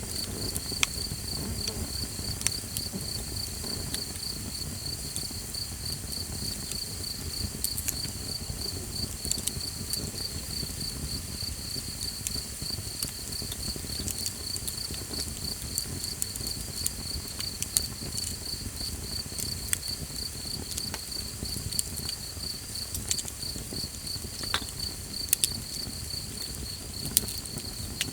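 Crickets chirping steadily in an even, rapid pulse, over a small campfire crackling with scattered sharp pops and a low, soft rush of burning.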